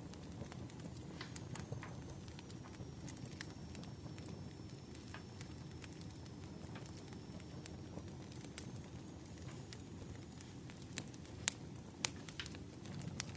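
Wood fire crackling: irregular sharp pops and snaps over a steady low rumble of burning logs, with the loudest pops a little before the end.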